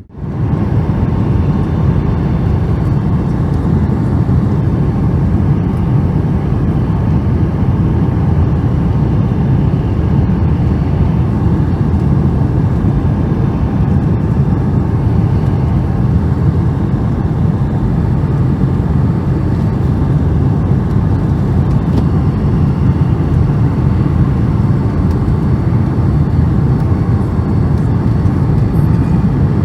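Steady, loud cabin roar of a Boeing 757-200 airliner, engine and airflow noise heard from a seat inside the cabin during the landing sequence. It holds even throughout, with no rise or change.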